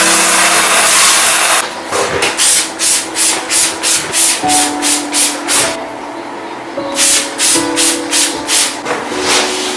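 A steady rushing hiss for about a second and a half, then a stiff brush scrubbing a bathroom surface in even back-and-forth strokes, about two a second. The strokes pause for about a second midway and then resume.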